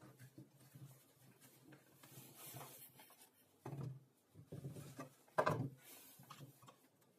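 Quiet handling noise: a few soft knocks and scrapes of objects being moved and set down, the loudest about five and a half seconds in.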